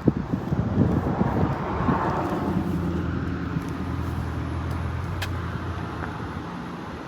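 A car passing on the road beside the stopped vehicle. Its tyre and engine noise swells over the first couple of seconds, then a low engine hum carries on and fades away near the end.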